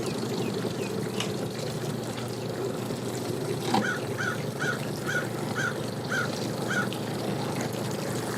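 A bird calls a run of about eight short, evenly repeated notes over a steady low hum from a boat's engine idling near the dock.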